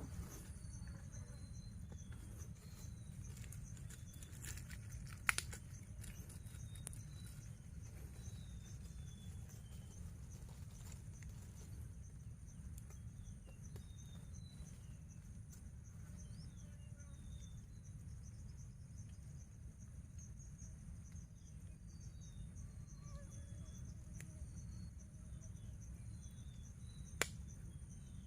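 Mangrove-forest insects keeping up a continuous high-pitched drone, with many short chirps scattered through it, over a steady low rumble. Two sharp clicks stand out, one about five seconds in and one near the end.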